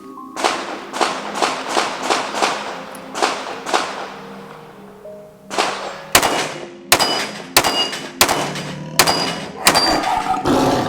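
Gen 5 Glock 19 9mm pistol firing: a quick even string of shots, then after a short pause a slower string of about eight sharp shots, several followed by a brief ringing ping of bullets hitting steel targets. Background music plays underneath.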